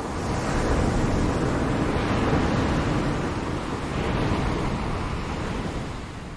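Ocean surf: a wave washing in, the rush swelling about half a second in and slowly ebbing away near the end, with a smaller second surge about four seconds in.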